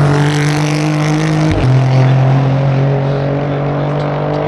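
Race car engine running hard at steady high revs, with a quick gear change about one and a half seconds in that drops the pitch before it holds steady again.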